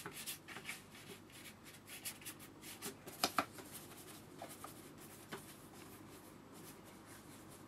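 Large hake brush scrubbing and dabbing in the dried pans of watercolour on the palette, picking up and mixing raw sienna and lemon yellow, with two sharp taps a little over three seconds in; the scratching gets quieter in the second half.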